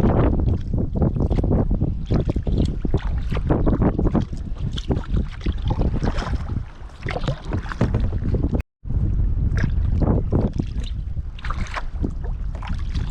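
Kayak paddle splashing and dripping in the water at an irregular pace, over wind buffeting the microphone. The sound cuts out completely for a moment about two-thirds of the way through.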